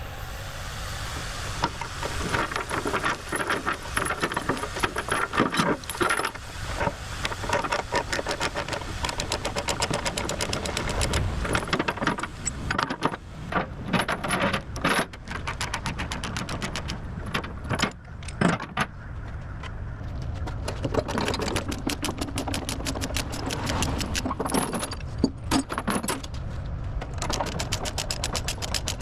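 Steel tie-down chains rattling and clanking as they are released from a heavy-haul trailer's load, with many sharp metallic clinks throughout.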